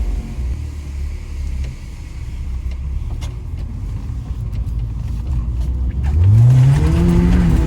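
Car engine running under a low, steady rumble of driving, then revving up with a steeply rising pitch about six seconds in as the car accelerates.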